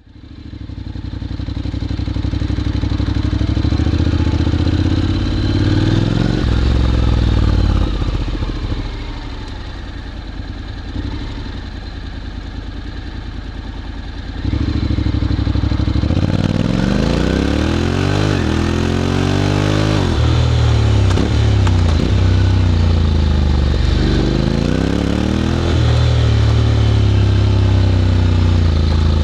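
Honda X-ADV 750 parallel-twin engine through an SC-Project titanium slip-on exhaust, ridden: it fades in, revs up and settles, runs quieter for several seconds, then gets louder and accelerates repeatedly, its pitch climbing and dropping back with each gear change.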